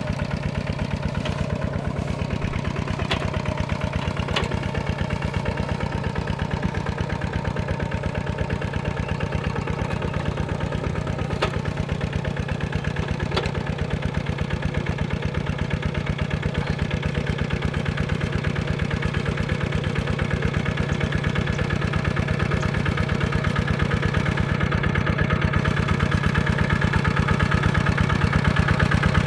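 Single-cylinder diesel engine of a Kubota RT155-type walking tractor running steadily with an even chugging beat, a few sharp clicks in the first half, growing slightly louder near the end.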